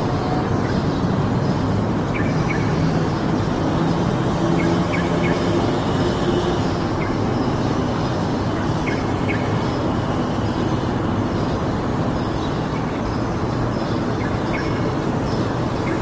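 A few short, high bird chirps scattered through a loud, steady low rushing noise.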